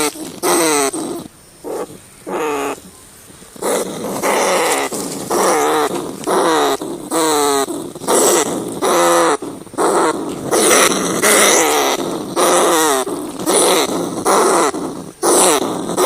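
Rats squealing over and over: a string of short cries that waver in pitch, with a pause of about two seconds near the start.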